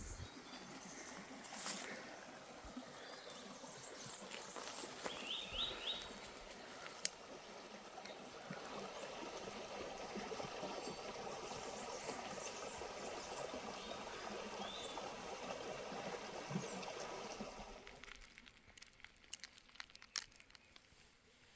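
Stream water running, a steady faint rush that stops abruptly near the end. A bird chirps a few times about five seconds in.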